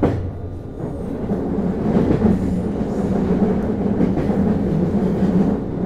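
JR East HB-E210 hybrid diesel-electric railcar running on the rails, heard from inside the car: a steady hum from the drive that swells about a second in and eases near the end, with a sharp knock at the start and fainter clicks of the wheels over rail joints.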